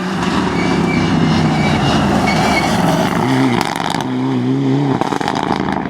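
Rally car engine running hard at high revs as the car comes through, its pitch shifting several times. Sharp crackles come about four seconds in and again near the end.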